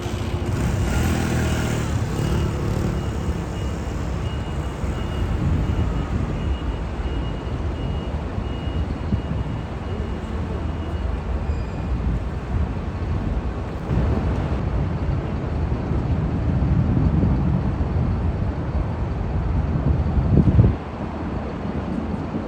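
Heavy fire-service vehicles' engines running and pulling away, a steady low rumble with a hiss over the first couple of seconds. The engine noise swells to its loudest and drops off suddenly near the end.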